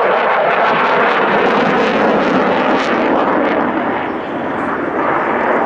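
Fixed-wing aircraft engine noise, a loud steady rushing drone as a display aircraft flies, easing slightly about four seconds in.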